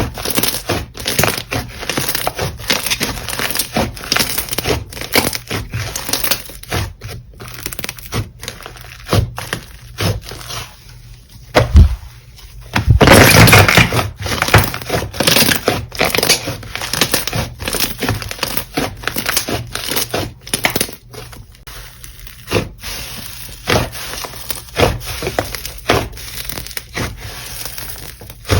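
Slime being squeezed and pressed by hand, giving a dense, irregular run of crackling, crunching pops. About halfway through comes a louder burst of continuous crackling lasting a second or so.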